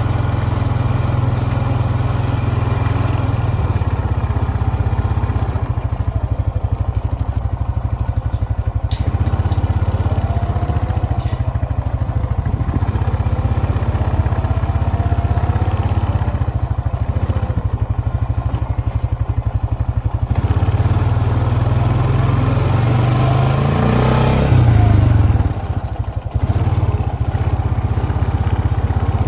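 Engine running with a steady low rumble, swelling louder for a moment about three quarters of the way through.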